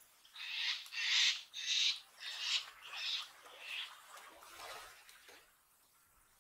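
A bird calling: a run of six harsh, scratchy calls about two every second, each a little weaker than the last, then one fainter call about a second later.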